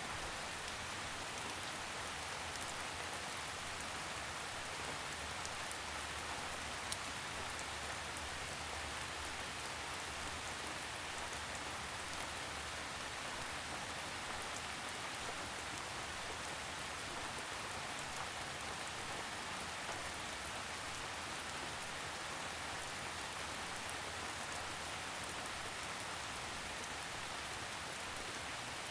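Steady rainfall: an even, constant hiss with scattered sharper drop ticks, one standing out about seven seconds in.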